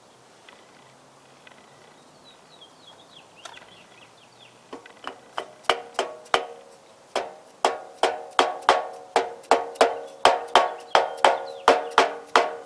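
A rapid series of sharp, ringing knocks, about three a second, starting about a third of the way in and carrying on nearly to the end. There is faint chirping before them.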